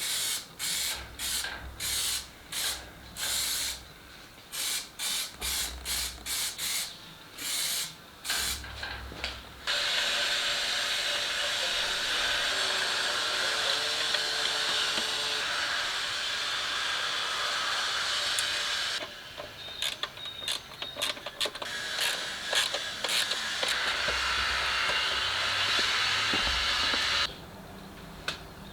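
Pressurised spray hissing, first in a quick series of short bursts, then in a long steady spray of about nine seconds, more short bursts, and a second long spray that cuts off near the end.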